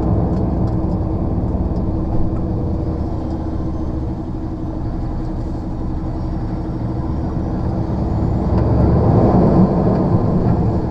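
Diesel engine of a rigid HGV lorry running, heard from inside the cab, with a steady low rumble that grows louder over the last few seconds as the lorry pulls away.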